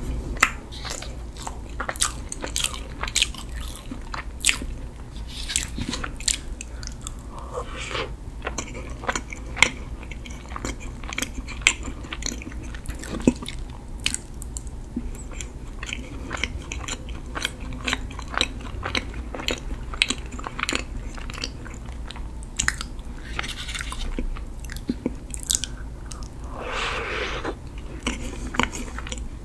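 Close-miked biting and chewing of a chocolate-glazed Freddi Dark Dolcetto mini cake: many sharp, sticky mouth clicks and smacks as the soft cake is chewed.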